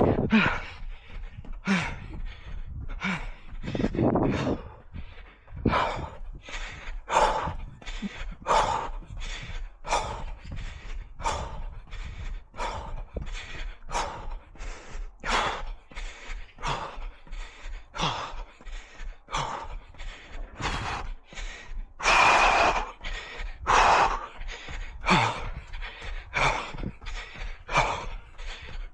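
A runner's heavy, rhythmic breathing, hard puffs and gasps at about two a second, held steady throughout.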